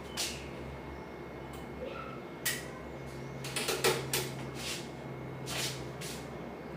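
A series of short sharp clicks and knocks, bunched in the middle, from parts and tools being handled during a stove repair, over a steady low hum.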